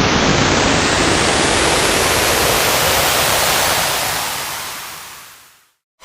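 Synthetic noise sweep effect: a loud, even rushing noise whose low end drains away so it grows thinner and higher, then fades out about five and a half seconds in.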